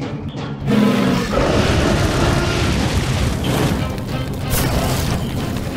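Background music under a loud boom sound effect that starts just under a second in, its rumble carrying on afterwards.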